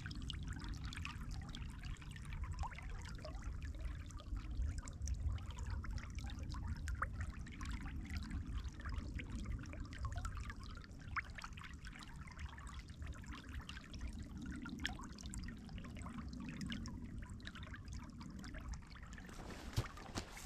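Water trickling, with many small quick splashes, over a steady low rumble.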